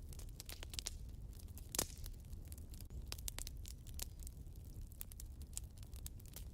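Wood fire burning in a fireplace: irregular snapping and crackling over a low steady rumble, with one louder pop nearly two seconds in.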